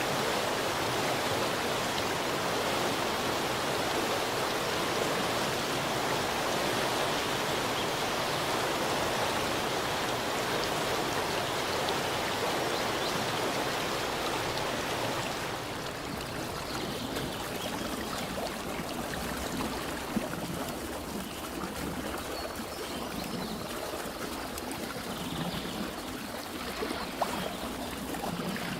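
Running water rushing steadily, like a stream. About halfway through it changes suddenly to a softer, quieter water sound with a few small clicks.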